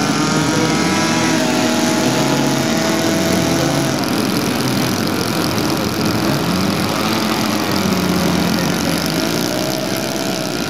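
Model airplane engines running with propellers turning, their pitch rising and falling.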